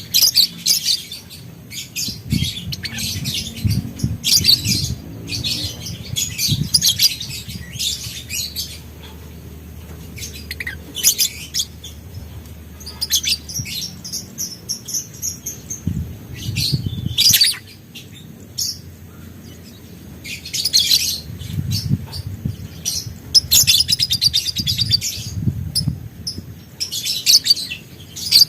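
Lovebird chattering in repeated bursts of rapid, high-pitched chirps, each a second or a few long, with a held whistle in the middle. Low thumps come in underneath at times.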